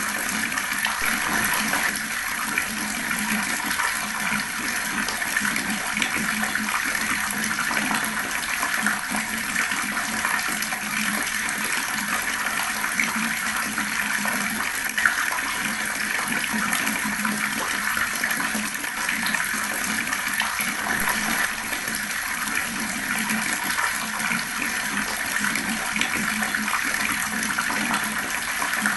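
Water running fast in a steady, unbroken rush.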